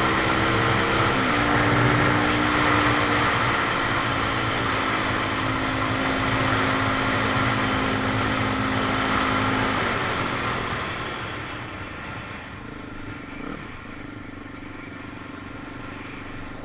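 A motor vehicle engine running steadily, its pitch shifting about a second in, then fading away after about ten seconds to a fainter background hum.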